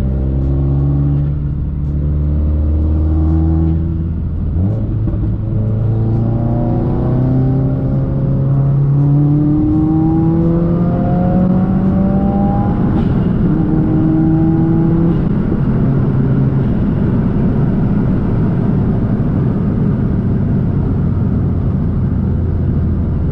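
Modified turbocharged Subaru WRX flat-four engine accelerating hard: after a steady few seconds, its pitch climbs through several gears from about four seconds in, dropping at each shift. From about sixteen seconds it settles into a steady rushing engine and road noise.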